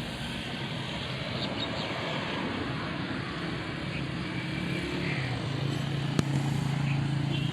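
Massey Ferguson 135 tractor engine running steadily, its note growing a little louder after about five seconds. A sharp click comes about six seconds in.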